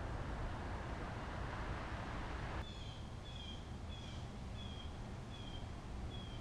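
Steady outdoor background noise, then, after a sudden cut, a bird calling over and over in short falling chirps a little under a second apart.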